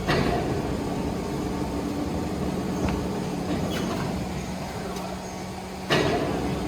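Workshop machinery running with a steady motor hum, with a few sharp knocks; the two loudest come at the start and just before the end.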